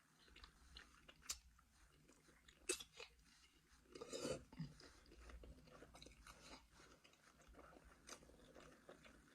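Faint chewing and crunching of food, with scattered sharp mouth clicks and a short louder patch about four seconds in.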